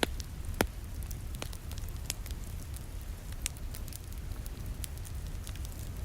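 Wood fire in a fireplace crackling, with scattered sharp snaps and one louder pop just over half a second in, over a low steady rumble and soft rain.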